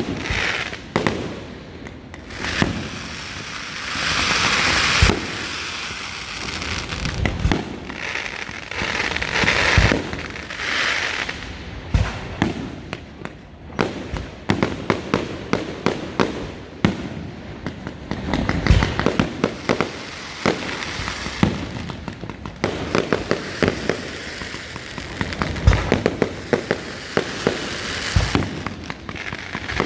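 Fireworks display: aerial shells bursting in an irregular run of bangs, some in quick crackling clusters, with stretches of hissing between them.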